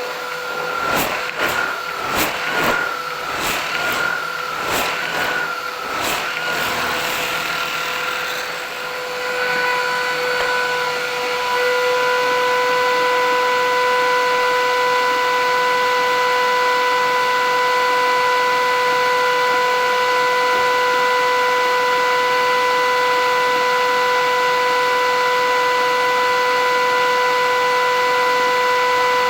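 Philips 8000 Series vacuum cleaner motor running with a steady whine. For the first several seconds the pitch wavers under a series of sharp knocks. After about nine seconds it settles into an even, unchanging hum.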